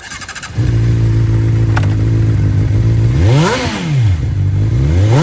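Honda CBR600RR inline-four with a Yoshimura exhaust started up: the starter cranks briefly, the engine catches about half a second in and idles steadily. It is then revved twice, the pitch rising and falling, with the second rev near the end.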